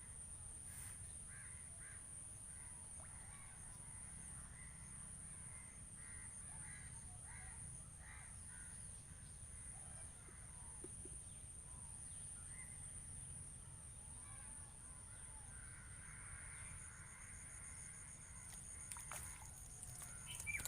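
Crows cawing faintly at a distance, repeatedly, over a steady high thin tone and a low background rumble.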